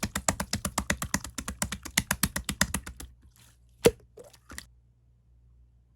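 Clear slime, purple and pink mixed, being squeezed and pressed by hand, giving a quick, even run of small clicking pops, about eight a second. The run stops about three seconds in, followed by one loud pop and two fainter ones.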